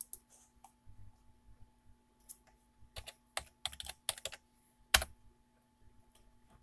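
Typing on a computer keyboard: irregular keystrokes and clicks, one much louder about five seconds in, over a faint steady electrical hum.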